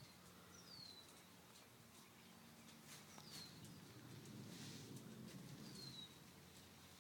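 A bird calling faintly: a short, high whistle sliding downward in pitch, three times about two and a half seconds apart.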